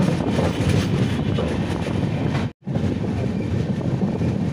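Running noise of a moving express train heard from an open coach doorway: a loud, steady rumble of wheels on rails with rushing air. It cuts out for a moment about two and a half seconds in.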